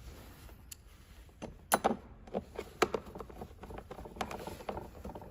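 Small hard parts being handled: a run of light clicks and taps, the loudest cluster a little under two seconds in.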